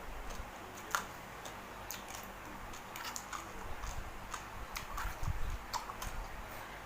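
Eating sounds: irregular small clicks and smacks of chewing spicy seafood papaya salad, about one or two a second.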